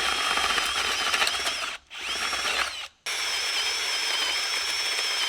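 A handheld electric power tool running at full speed with a steady high whine, stopped and restarted twice, winding down briefly each time, as it works on plywood pieces for a camper build.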